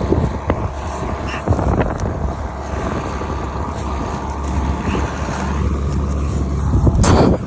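Vehicle engine running steadily with a low hum, over scattered knocks and rattles. A loud, brief rush of noise near the end.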